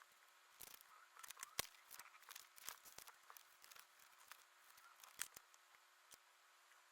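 Faint rustling, clicking and snipping of paper, photo-book pages and scissors being handled for cutting and tearing.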